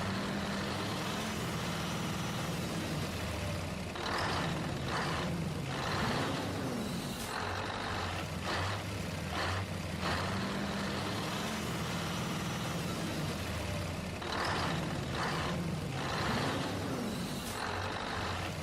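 Truck or tractor engine sound effect running steadily, with short hissing bursts; the pattern repeats about every ten seconds as a loop.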